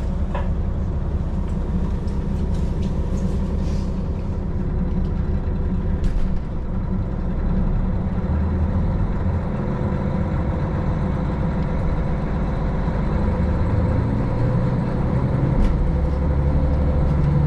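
KiHa 40 diesel railcar's underfloor diesel engine running, heard from inside the car as the train pulls away, with a few light knocks. Near the end the engine note grows stronger as it throttles up.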